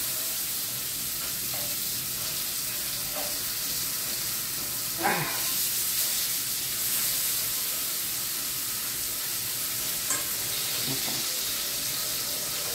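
Scallops sizzling as they fry in a pan, a steady hiss, with a few short sounds from handling standing out over it, the clearest about five seconds in.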